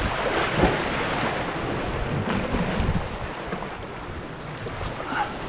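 Wind buffeting the microphone over a steady wash of water, easing off about three seconds in.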